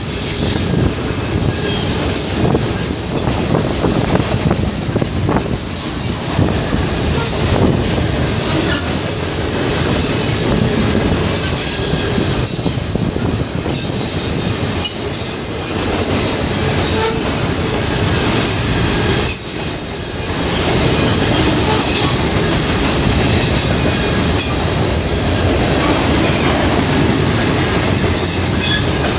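Freight train cars rolling past close by: a steady, loud rumble of steel wheels on rail, with repeated clacks as the wheels cross rail joints.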